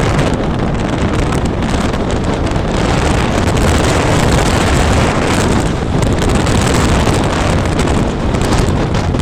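Wind buffeting the microphone in loud, uneven gusts over the steady noise of a car driving.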